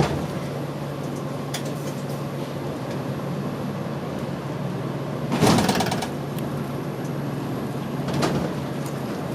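Route bus engine running steadily, heard inside the cabin while the bus drives, with a short loud rushing burst about five and a half seconds in and a smaller one near the end.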